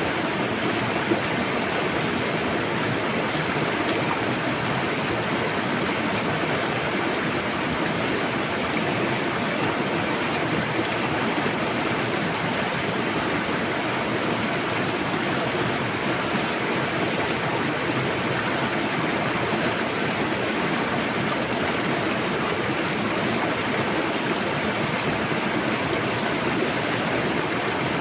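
Fast-flowing river rushing steadily, an even unbroken wash of water noise.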